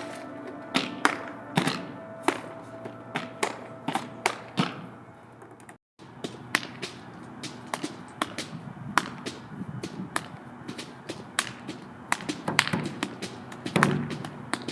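Body percussion: a rhythm of sharp claps and slaps with some lower thuds, over background music with a held tone in the first few seconds. The sound cuts out completely for a moment about six seconds in, then the percussion carries on.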